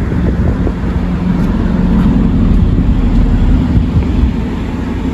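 Motor vehicle running: a steady low engine and road rumble with a constant hum.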